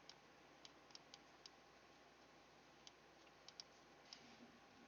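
Near silence, with about nine faint, light clicks scattered unevenly through it.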